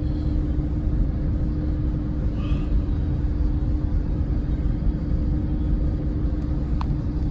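Cabin road noise of a moving vehicle: a steady low rumble with a constant hum, and one brief click near the end.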